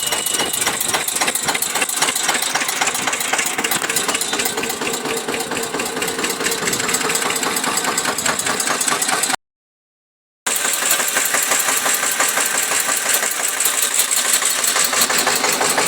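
Tractor's diesel engine running steadily with a rapid, even chugging beat; the sound drops out completely for about a second in the middle and then carries on.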